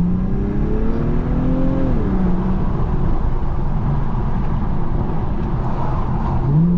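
Infiniti Q50's twin-turbo V6 pulling under acceleration: revs climb for about two seconds, drop sharply, run lower for a few seconds, then climb again near the end.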